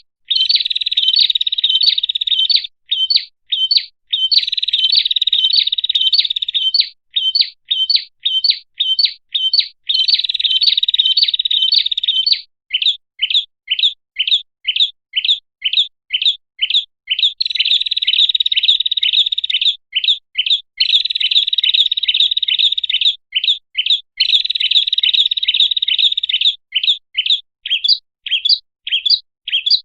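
Prenjak (bar-winged prinia) calls used as a lure to draw wild prenjak. Runs of sharp, high chirps about four a second alternate with bursts of fast continuous trilling a couple of seconds long, over and over.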